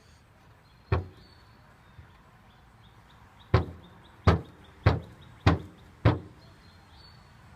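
Heavy knocks with a short ringing tail: one about a second in, then five more in quick succession, roughly every 0.6 seconds.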